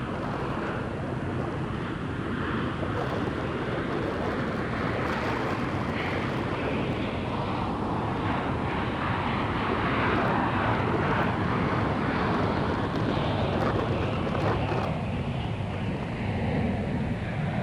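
Jet airliner's engines at takeoff power, a broad rumbling roar that swells to its loudest about two-thirds of the way through and then eases, with wind buffeting the microphone.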